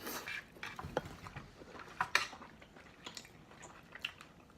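Two people eating king crab: quiet chewing and mouth noises with scattered light clicks and crackles, two of them louder about one and two seconds in.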